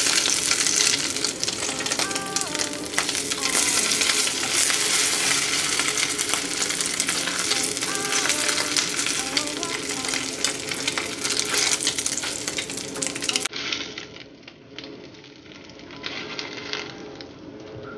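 Fish balls and crab sticks frying in hot oil in a stainless pot, a steady crackling sizzle as chopsticks turn them. About 13 seconds in it drops to a quieter, duller sizzle.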